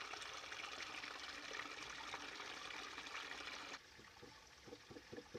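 Small creek's water trickling and pouring steadily. About two-thirds of the way through it cuts off to a much quieter passage with faint, fast, even ticking, several ticks a second.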